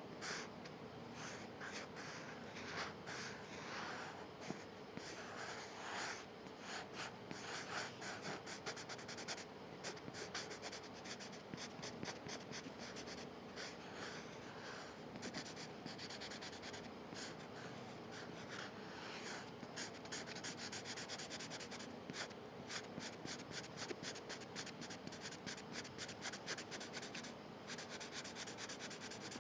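A drawing tool scratching on paper in short strokes, coming in quick back-and-forth flurries, over a faint steady hum.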